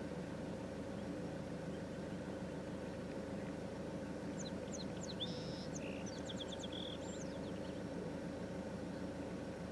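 A steady low rumble with a faint hum throughout, over which a small bird gives a quick run of short high chirps and trills from about halfway in, lasting around three seconds.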